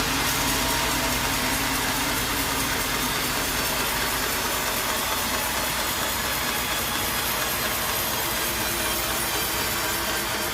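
A sawmill saw cutting through wood with its engine running, a steady, unbroken din.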